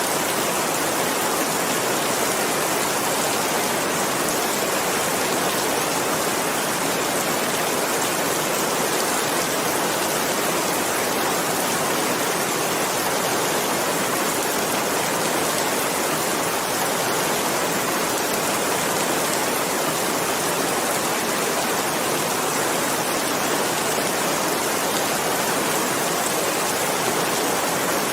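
Steady, dense rainfall, a constant even hiss with no distinct drops or pauses.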